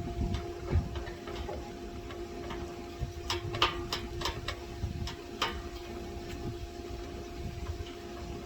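Scattered sharp metallic clicks and taps from hand tools working on an air-conditioning condenser's fan-motor mounting, most of them in the middle of the stretch, over a steady electrical hum.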